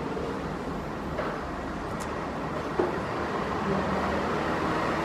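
Steady road-traffic noise with a single brief knock about three seconds in.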